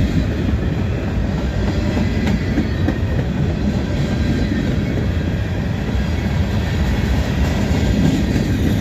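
Freight train of covered hopper cars rolling past close by, their steel wheels running steadily on the rails.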